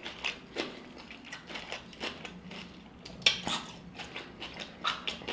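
Close-up chewing of a bitten fresh jalapeño: irregular crisp crunches, the loudest about three seconds in.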